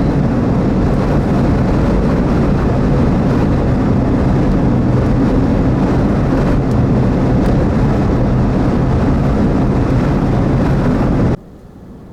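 Steady road noise inside a moving vehicle, a low drone from engine and tyres with a rushing hiss over it. It cuts off suddenly near the end.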